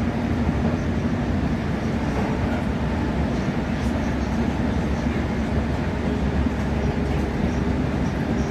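Passenger train running at speed, heard from inside the carriage: a steady low rumble from the running gear and traction, with a little faint ticking over it.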